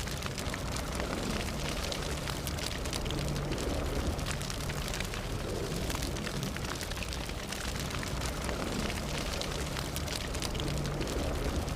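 Fire burning: a steady low rumble with many small, sharp crackles and pops throughout.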